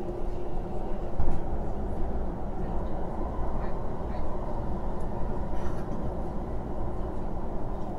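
Kinki Sharyo/Kawasaki electric train running at speed, heard from inside the carriage: a steady low rumble with a faint hum, and a single thump about a second in.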